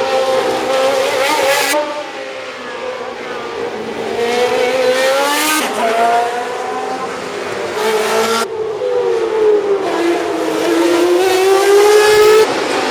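Historic 1966–72 Formula One racing engines running hard as the cars go by, the pitch rising and falling with throttle, gearchanges and passing. The sound switches abruptly from one car to the next a few times.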